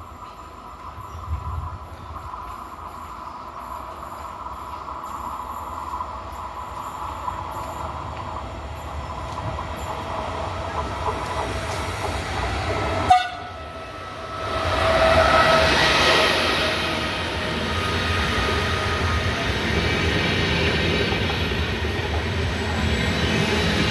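Train on the railway line approaching and running past, growing steadily louder. A sharp click and a short dip come about halfway, then the loudest stretch, with a few steady tones in it, before it stays fairly loud.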